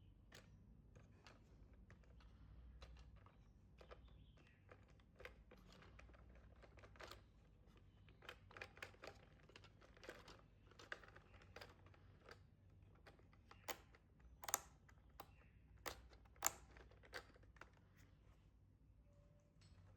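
Faint handling noises of toy packaging: scattered clicks, taps and plastic crinkling, with a few sharper clicks in the second half.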